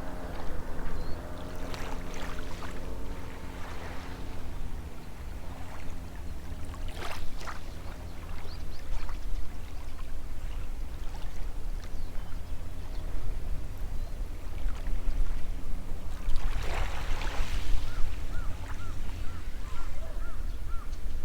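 Small waves washing onto the shore, with the steady hum of a distant boat engine underneath. Three bigger washes come about 2, 7 and 17 seconds in, and a few short chirps are heard near the end.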